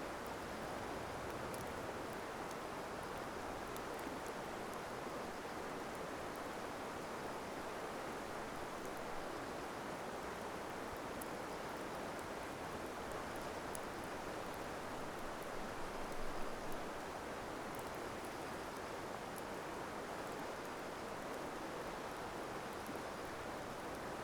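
Wood campfire burning, with faint, sparse crackles and pops over a steady rushing background noise; a slightly louder flurry comes about two-thirds of the way through.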